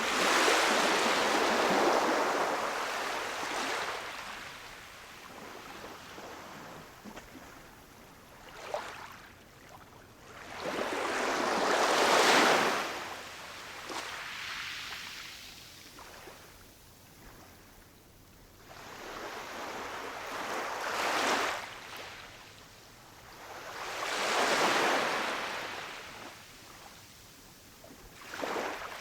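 Ocean waves washing in on a shore in four slow surges, each rising and falling back. The loudest surges come near the start and about twelve seconds in.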